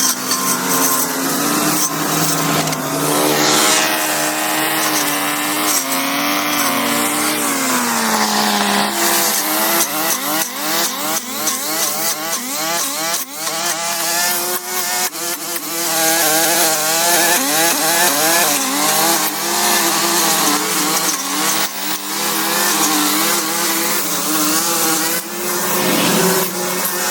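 A small engine running continuously, its pitch sliding down in the first few seconds and then wavering rapidly up and down as the load changes.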